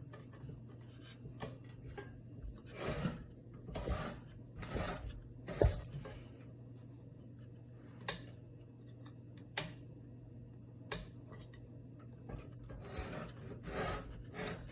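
Faint steady hum of a Hunter Regalia ceiling fan's motor, overlaid by a series of short rubbing, scraping noises and three sharp clicks.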